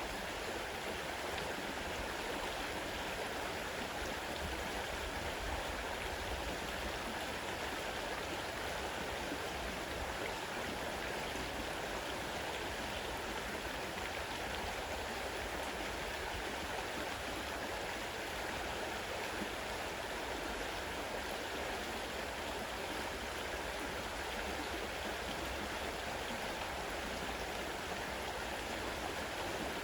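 Fast-running river water: a steady, even rush with no breaks.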